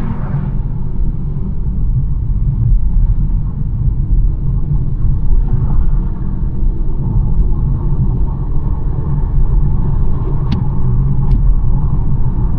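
BMW 1 Series driving along a road: a steady low rumble of tyre and engine noise, with two short ticks near the end.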